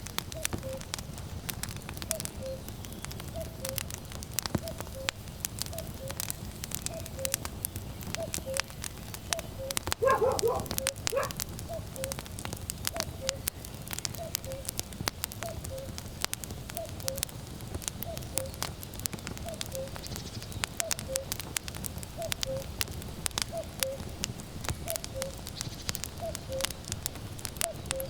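Firewood burning with constant crackling and popping, while a common cuckoo calls its falling two-note "cu-ckoo" over and over, about once a second. A short, louder call stands out about ten seconds in.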